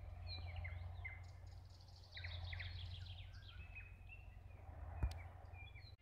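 Small birds chirping and calling now and then: short whistled notes and a quick trill, over a faint low steady rumble. A single sharp click about five seconds in.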